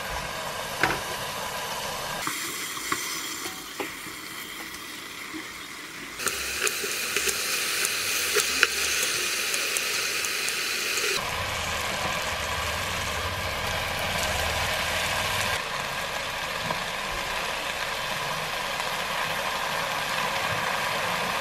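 Seaweed, and later shredded beef, stir-frying in sesame oil in a pot: a steady sizzle with scattered sharp clicks of a utensil. The sound changes abruptly in tone a few times.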